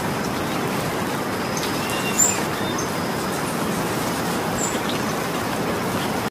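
Steady rain falling, a dense even hiss, with a single sharp tap about two seconds in.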